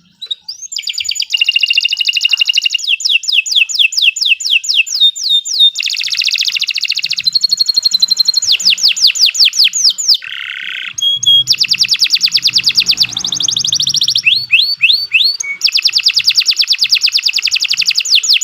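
Canary singing a long, loud song of rapid trills: runs of quick sweeping notes repeated several times a second, broken by short pauses, with one lower, buzzier roll about ten seconds in.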